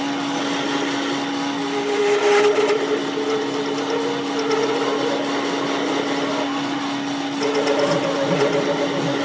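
A workshop machine running steadily: a constant motor hum with a higher whine that wavers and shifts in pitch twice.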